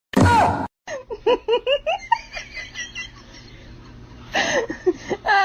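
A short loud burst, then a person laughing in a string of short giggles that get louder again near the end.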